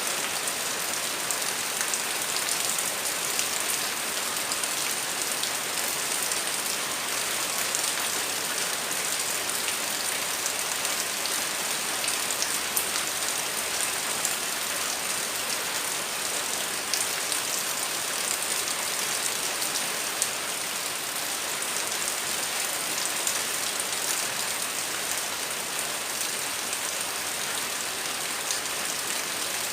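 Heavy rain falling steadily, a dense even hiss with many sharp drop ticks on hard surfaces.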